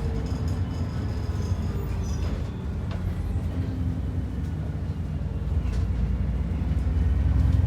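Inside an ADL Enviro 400 double-decker bus on the move: a steady low engine and road rumble that grows louder near the end.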